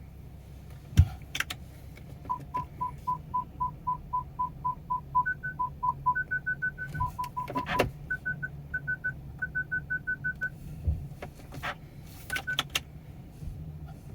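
Repeated short electronic beeps, about four a second, switching between a lower and a higher pitch, over the steady low drone of the BMW X5 E70's N55 engine idling. A few sharp clicks stand out, the loudest about a second in.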